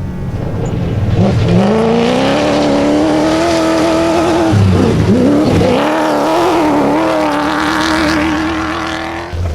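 Rally-raid competition vehicle engine at full throttle: the pitch climbs hard, holds high, drops and wavers briefly about halfway through, then pulls up again. It cuts off abruptly near the end, where another engine starts rising.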